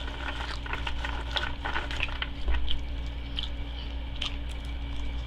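Close-up chewing and mouth sounds: a scatter of soft, irregular wet clicks, heaviest over the first few seconds, over a steady low hum.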